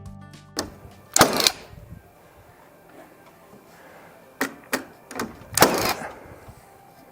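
Sharp knocks and clattering bangs from carpentry work on a timber frame, two of them longer rattling clatters, about a second in and again near six seconds. The tail of a guitar music bed ends just at the start.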